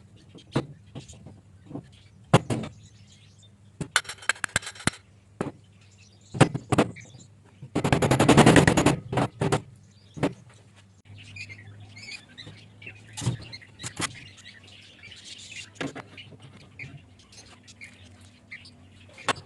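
Scattered knocks and clicks of hands and tools working on a water pump. About four seconds in there is a quick rattle, and near eight seconds a loud rush of noise lasting about a second and a half. Birds chirp in the background.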